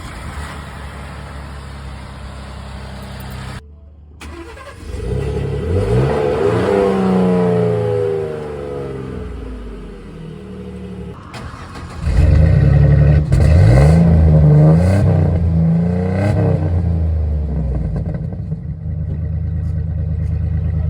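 Pickup-truck V6 engines, a Ford F-150's 2.7 L twin-turbo EcoBoost and a Chevrolet 4.3 L Vortec, idling and revved through their exhausts in separate takes. Each take has several rising and falling revs, and the second is louder, before settling back to idle.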